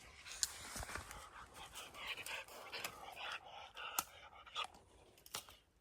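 Faint panting breaths, broken by scattered light clicks and rustles.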